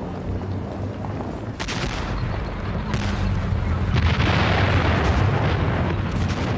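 Battle sound effects: artillery booms and gunfire over a continuous low rumble. Sharp reports come about 1.5, 3 and 6 seconds in, and the din grows louder from about 4 seconds in.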